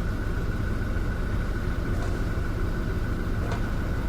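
Toyota Hilux four-cylinder turbodiesel engine idling steadily, a low even rumble with a faint constant whine above it.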